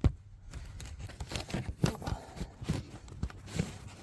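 Handling noise from a phone being moved and repositioned: scattered light knocks and rubbing against the phone's microphone.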